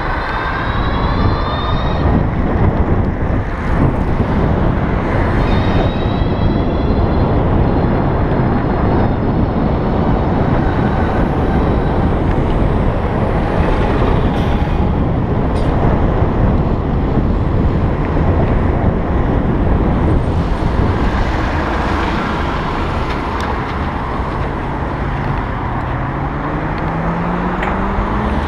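Steady rush of wind and road noise while riding in traffic on an electric bike. Thin whines glide in pitch near the start and about six seconds in, and a low motor tone rises in pitch near the end.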